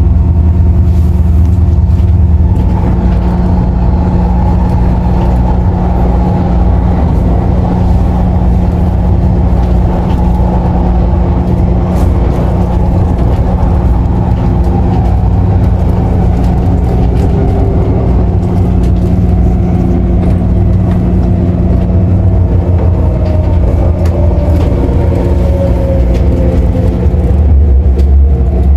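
MTR Airport Express CAF train heard from inside the carriage: steady running noise with a constant low hum. In the second half, the traction motors' whine falls in pitch as the train slows.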